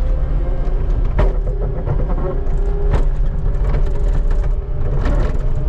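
Skid steer engine running steadily under load, with three sharp knocks and clanks spread through as the bucket scrapes snow from the pavement.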